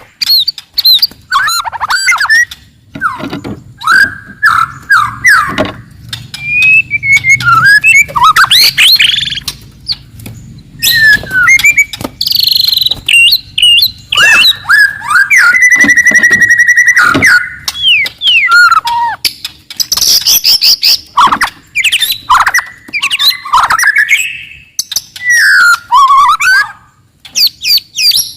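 Wild white-rumped shama singing a loud, aggressive song: a varied string of clear whistles, slurred phrases and fast chattering trills, with a buzzing rattle about halfway through.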